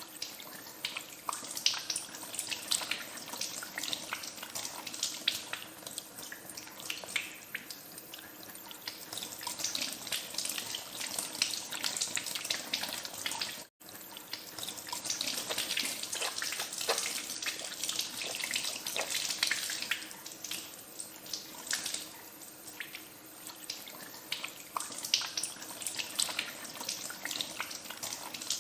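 Tap water running into a sink while hands are washed under it, with irregular splashes. The sound drops out for an instant about halfway through.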